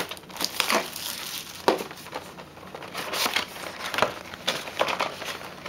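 Plastic wrapping on a trading-card hobby box crinkling and rustling in irregular crackles as the box is handled and opened.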